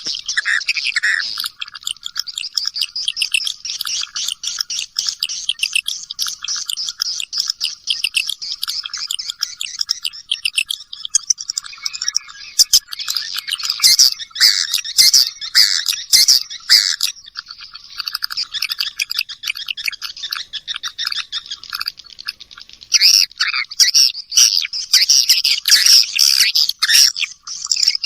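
Edible-nest swiftlets twittering in a dense, rapid chatter of chirps, louder in two stretches midway and near the end. This is a recorded swiftlet lure call, played to draw swiftlets into a nesting house.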